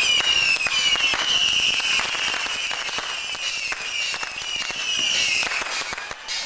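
Strings of firecrackers popping rapidly and continuously. Over them a loud, high tone slides downward again and again.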